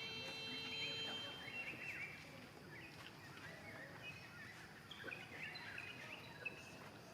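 Birds chirping in many short calls over steady outdoor background noise; a steady tone stops about a second in.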